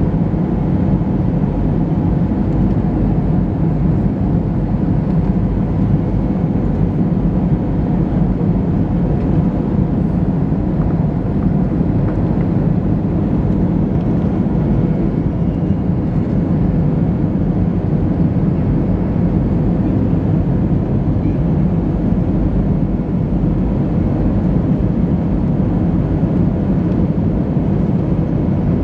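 Steady cabin noise inside an Airbus A320-214 on approach: the drone of its CFM56-5B engines and rushing airflow, unchanging throughout.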